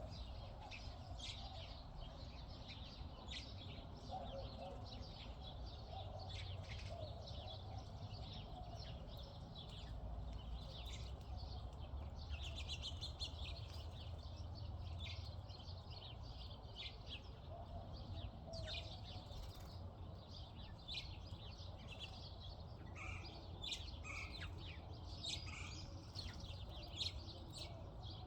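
Many small birds chirping and twittering at once, with quick, overlapping short calls throughout, over a steady low rumble.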